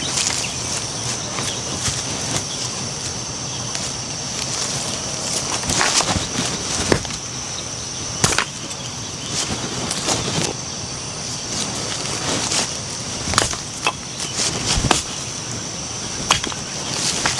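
Irregular knocks and clicks over a steady high-pitched hiss.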